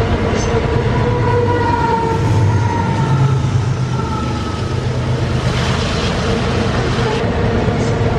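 Long, heavy freight train running, a steady loud rumble with several whining tones that slowly drop in pitch.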